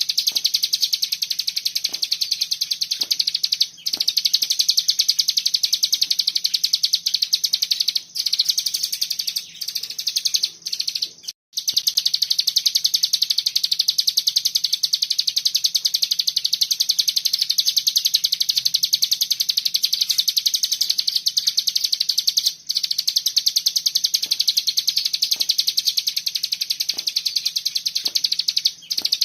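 Cigun songbird singing its rapid 'bren' song: a dense, unbroken machine-gun-like stream of high notes. The stream stops only for a few short breaks, the longest about eleven seconds in.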